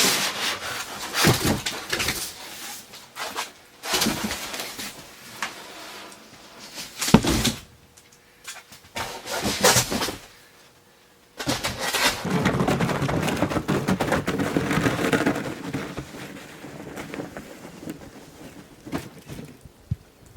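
Objects being handled and moved while sorting through stored junk: a series of sharp knocks and clatters, then a few seconds of continuous rustling about twelve seconds in.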